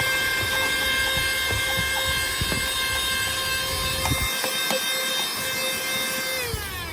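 Lachesis cordless handheld vacuum cleaner running with a steady high whine and airflow rush, a few light knocks partway through, then switched off near the end, its motor whine falling in pitch as it spins down.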